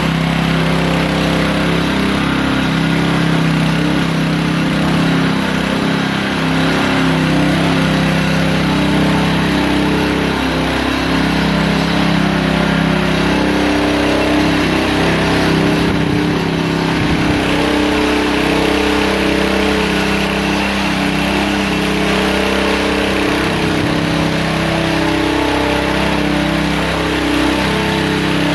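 Walk-behind single-rotor power trowel running steadily, its engine and spinning blades floating fresh concrete on the first pass to soften the surface crust.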